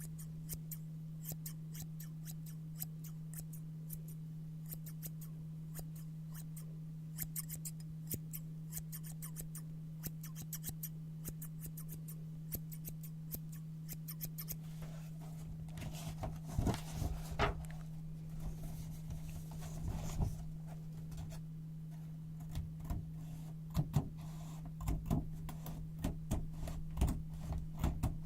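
Scissors cutting brown paper: a long run of quick, crisp snips, then from about halfway louder rustling and handling of the paper with soft knocks. A steady low hum runs underneath.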